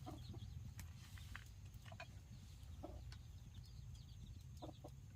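Chickens clucking faintly now and then, with small high chirps, over a steady low rumble.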